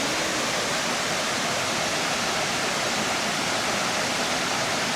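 Waterfall cascading into a pool: a steady, dense rush of falling water that does not let up.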